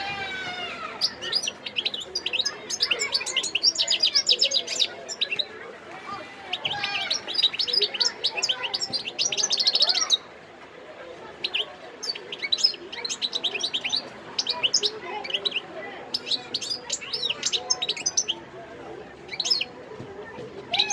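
Wild-caught European goldfinch singing: rapid, high twittering phrases of quick chirps and trills, broken by short pauses.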